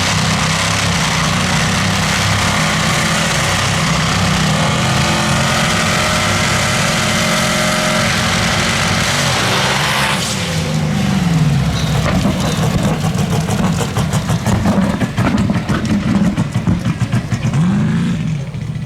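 Drag race car engines running loud and steady, then about ten seconds in the sound changes abruptly, followed by an engine revved up and down over and over in short sweeps near the end.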